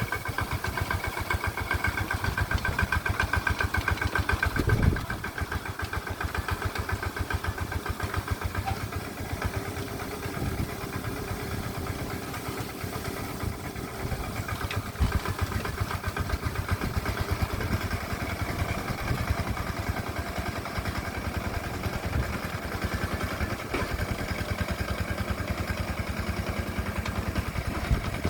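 Engine of a walk-behind hand tractor ploughing a rice paddy, running steadily with a rapid, even chugging beat. It is a little louder for the first five seconds or so, then settles.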